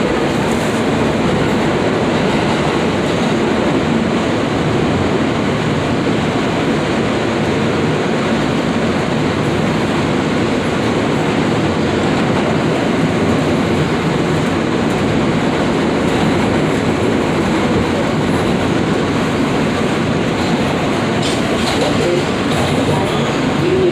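New York City subway F train running along the track, heard from inside the car: a loud, steady rumble of wheels on rails, with a few brief high squeaks near the end.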